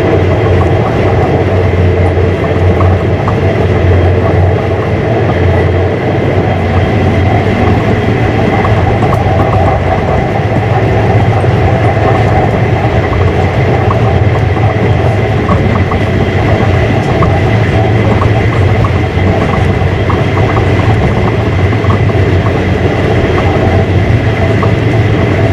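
Passenger train running along the rails, heard from inside the passenger carriage: a loud, steady rumble with a faint steady high tone and light, irregular clicking from the wheels on the track.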